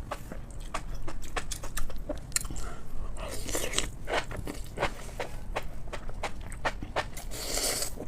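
Close-miked mukbang eating sounds: a person biting and chewing food, with many quick, irregular mouth clicks and smacks, several a second.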